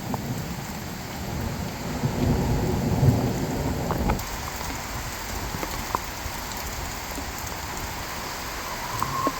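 Steady rain falling, an even hiss with scattered drop ticks. A heavy low rumble of thunder runs under it for the first four seconds and stops suddenly.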